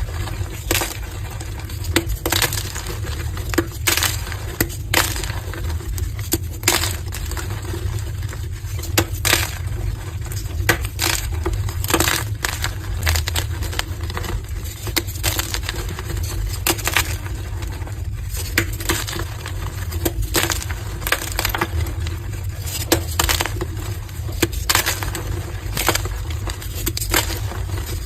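Soft pastel-dyed gym chalk blocks being crushed, giving a dense run of irregular crunches and crumbling crackles, several a second, over a steady low hum.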